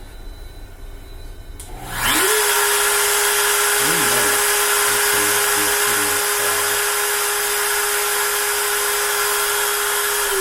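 A CNC router's spindle motor starting about two seconds in: a quick rising whine that settles into a loud, steady high-speed hum, with some shorter lower whirs a few seconds later.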